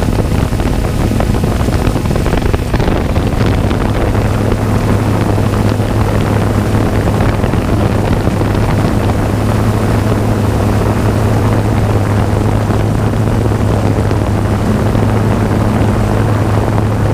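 Jet ski engine running at a steady speed, a constant low drone with wind buffeting the microphone.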